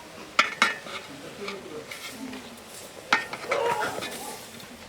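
A utensil stirring and knocking against a cooking pot, with sharp clinks about half a second in and again around three seconds in.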